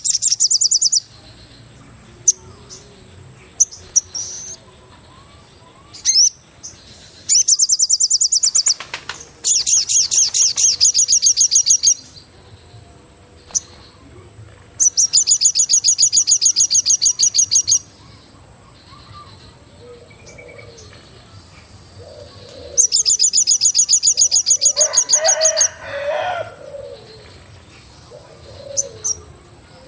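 Forest bird calls: a high, rapid trill repeated five times, each burst lasting one to three seconds. A lower, richer call comes about three-quarters of the way in, with a few soft low calls scattered through the second half, over a steady faint high whine and quiet background.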